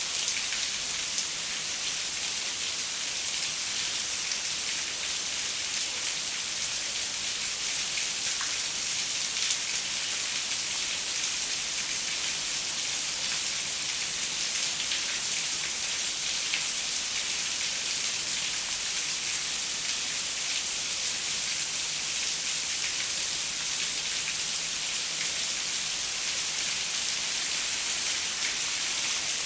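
Steady rain on a window: a dense, even hiss with scattered small ticks of individual drops.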